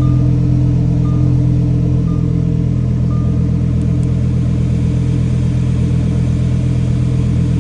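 Lamborghini Huracán Evo's 5.2-litre V10 running at a loud, steady fast idle just after a cold start, easing a little about two seconds in.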